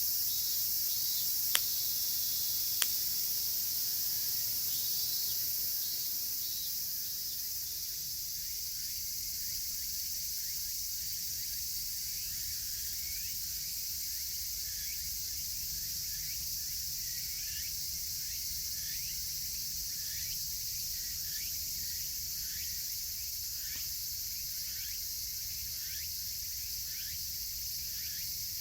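Dense cicada chorus, a steady high-pitched buzz, with higurashi evening cicadas calling in runs of short repeated falling notes through the second half. Two sharp cracks from the campfire come early on, about a second apart.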